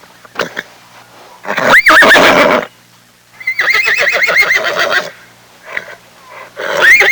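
A horse whinnying three times. A first call about a second and a half in rises to a high pitch. A longer quavering whinny follows around three and a half seconds in, and another rising call starts near the end.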